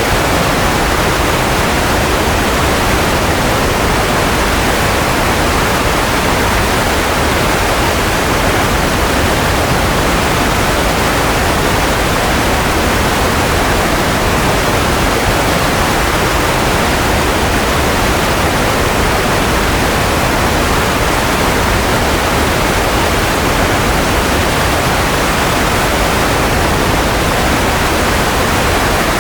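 Steady white noise: a loud, even hiss that never changes, with no hum or clicks in it.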